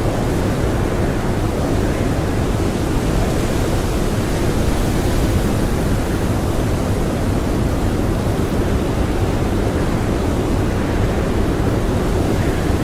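Strong blizzard wind blowing steadily, a dense, low rushing noise with no gusts, breaks or other sounds.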